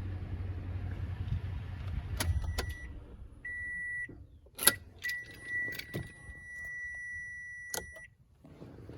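The 2016 Toyota Tundra's 5.7 L V8 idling, then shutting off about three seconds in with clicks from the key. A steady high warning chime then sounds, once briefly and then for about three seconds, with further clicks and keys jingling.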